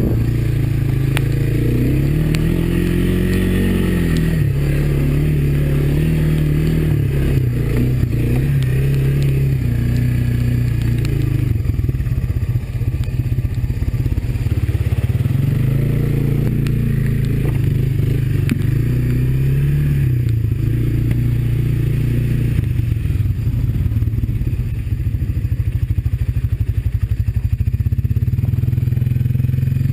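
Honda ATV's single-cylinder four-stroke engine running under way, its pitch rising and falling with the throttle, with scraping and clattering from the quad working over the rough trail.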